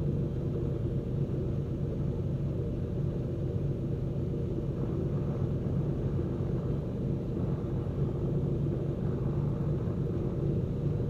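Cessna P210N's turbocharged six-cylinder piston engine running steadily at low power while the aircraft sits on the ground before takeoff, heard from inside the cockpit as an even drone.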